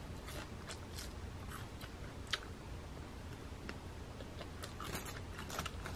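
Close-up eating sounds of someone nibbling and chewing a piece of fried chicken: faint, scattered crunches and mouth clicks, one sharper crunch about two seconds in and several more near the end, over a low steady hum.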